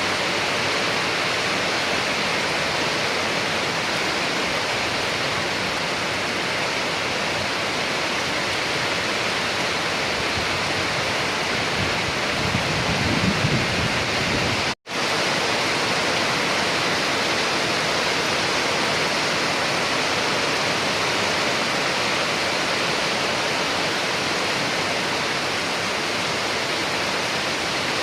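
Steady rain, an even hiss with no break in its texture. Partway through there is a brief low rumble, and just after it the sound cuts out for an instant before the rain resumes.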